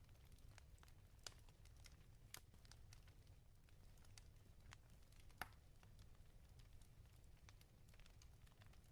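Wood fire crackling quietly in a fireplace: scattered faint pops and snaps, the sharpest about five and a half seconds in, over a low steady rumble.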